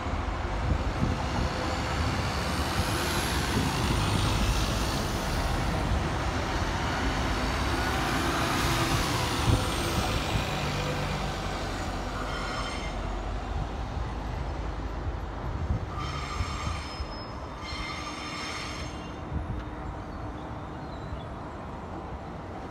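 A bus pulls away and road traffic rushes past, then a Transperth electric suburban train runs along the line. Its wheels give short, high-pitched squeals twice in the later part.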